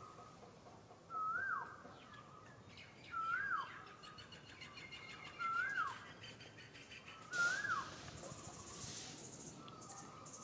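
A bird repeating a short whistled call, a note that rises and then drops sharply, about every two seconds, four times.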